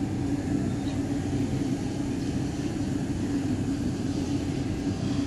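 Steady low rumble with a faint hum, no distinct events.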